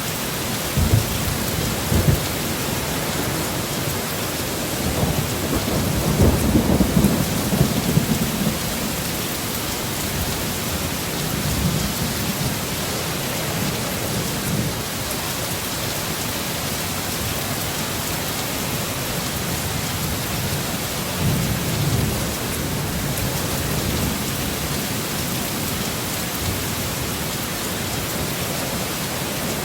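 Heavy rain falling steadily, with thunder rumbling low several times. The longest and loudest rumble comes about five to eight seconds in, and a shorter one comes about twenty-one seconds in.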